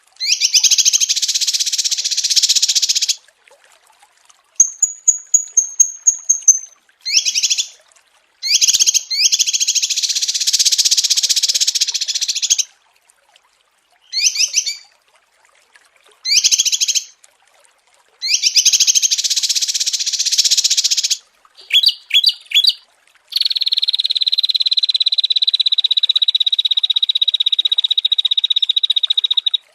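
Recorded songs of small songbirds spliced together as a masteran (song-training) track: bursts of high chirping song phrases separated by clean silent gaps, a short run of thin high whistled notes, quick chirps, then one long steady trill near the end.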